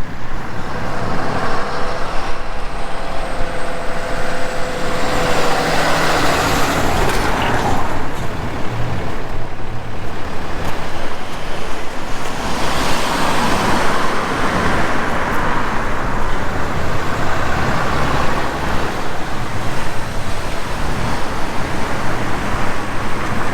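Road traffic: a steady engine and tyre rumble, with vehicles passing and swelling louder about six seconds in and again around twelve to sixteen seconds in.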